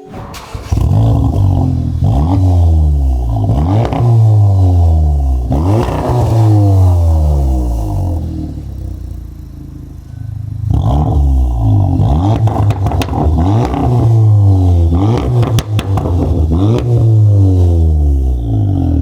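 VW Mk7.5 Golf R's turbocharged 2.0-litre four-cylinder revved through a Milltek 80 mm race exhaust. It gives a string of quick throttle blips, each rising sharply and falling back. It eases to a quieter stretch about eight seconds in before more blips.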